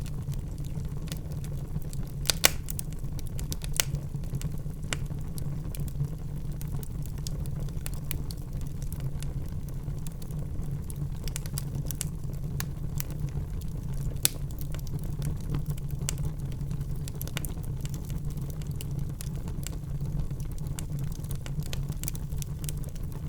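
Wood fire burning in a fireplace: a steady low rumble of the flames with frequent sharp crackles and pops, a few louder snaps now and then.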